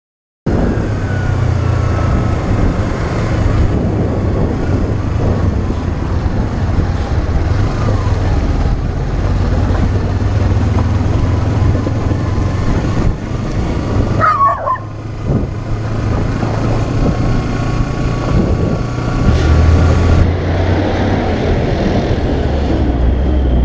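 Motorcycle engines running on the move, heard from an action camera with wind noise on the microphone: a Kawasaki Ninja 250 at first, then a Honda scooter after a cut about 20 seconds in. A brief high squeal sounds just past the middle.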